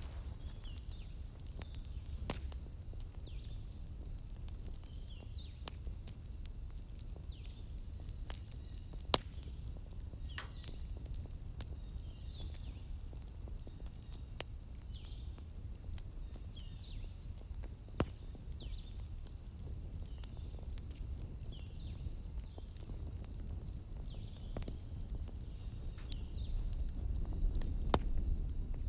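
Wood fire burning in a fireplace: a low steady rumble with a few sharp, scattered crackling pops. A steady high-pitched chirping runs in the background.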